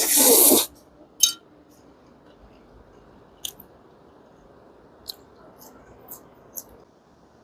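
Someone eating roast chicken: a loud crackling crunch for about half a second at the start, then a few soft clicks and smacks of chewing.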